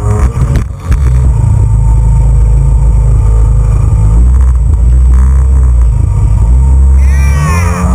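Jet ski engine running hard under way, its pitch shifting with the throttle, over a loud rush of wind and water on the action camera's microphone.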